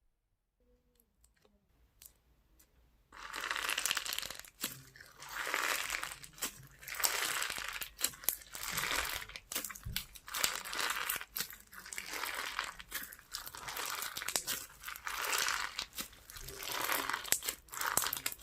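A crunchy slime being squeezed and worked by hand, giving dense crackling and popping in repeated squeezes about a second apart. It starts about three seconds in, after a few faint clicks.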